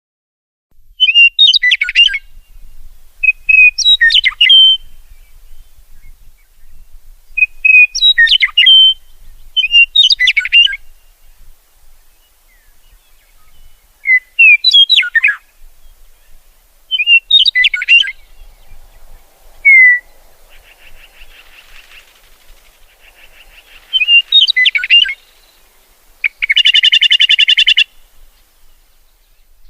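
A songbird singing short, varied chirping phrases, one every two to three seconds, with a harsh buzzing call lasting over a second near the end.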